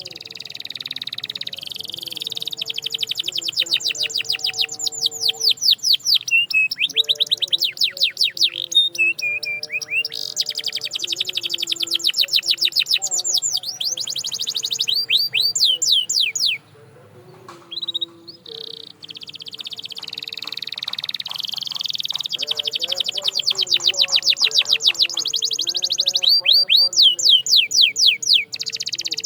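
Domestic canary singing long, rapid trills: runs of quickly repeated high notes, many per second, grouped into phrases with short pauses. A longer break falls a little past the middle.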